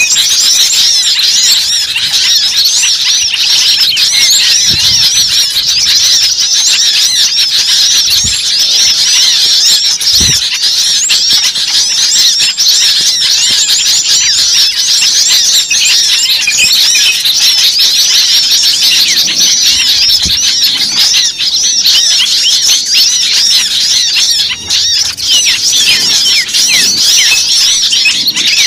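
Bird-lure recording of many small birds calling at once: a dense, loud, unbroken chorus of rapid overlapping chirps and squeaky high notes.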